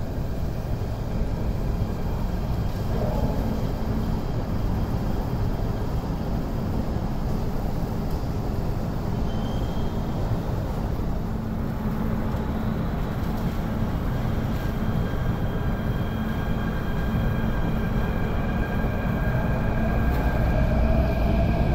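MTR electric train heard from inside a passenger car: steady rumble of wheels and running gear, with an electric whine rising in pitch near the end.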